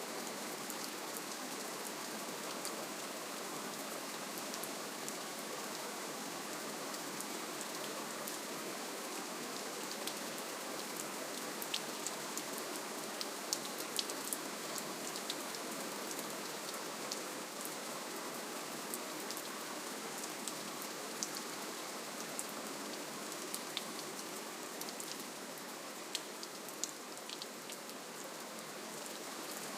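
Steady rainfall: an even hiss of rain with scattered individual drops ticking, a little quieter near the end.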